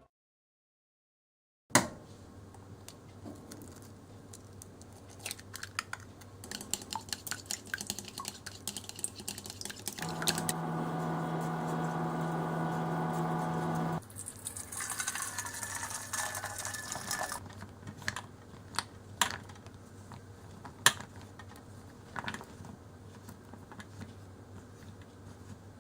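Kitchen handling sounds: scattered light clicks and taps of utensils and containers, with a steady electric hum for about four seconds in the middle, followed by a few seconds of brighter hiss.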